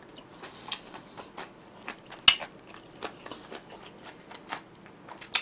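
Close-miked chewing: irregular wet mouth clicks and smacks, with a sharper click about two seconds in and another near the end.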